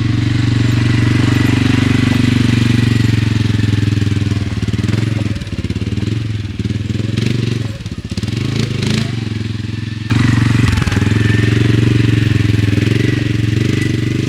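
ATV engine running while being driven, a steady drone whose pitch wavers and dips between about five and ten seconds in, then picks up again suddenly.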